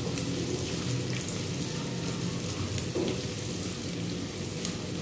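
Chopped green chillies, ginger and garlic frying in hot oil in a non-stick kadhai while a spatula stirs them: a steady sizzle with small crackles.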